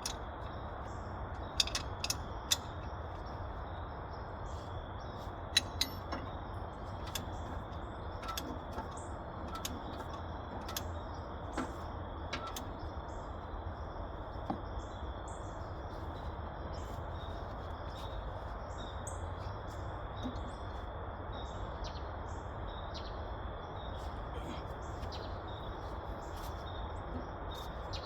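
Outdoor ambience with birds chirping over a steady low background hiss and rumble. Several sharp clicks come in the first few seconds, then sparser ones.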